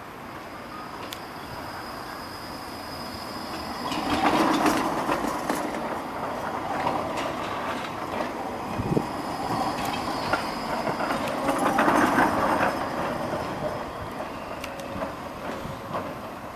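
A tram passing on its rails, wheels clattering over joints, with two louder stretches about four and twelve seconds in and a faint high squeal of wheel on rail.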